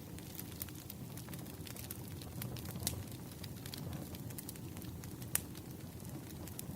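Campfire crackling: a steady low rumble of burning wood with scattered sharp pops, two louder pops about three seconds and five and a half seconds in.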